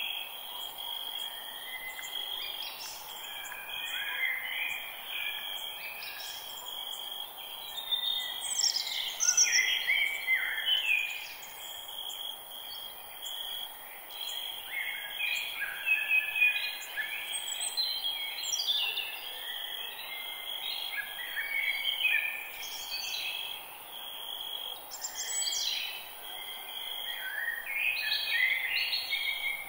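Forest birdsong: several birds singing and calling in short, overlapping phrases over a steady high hiss.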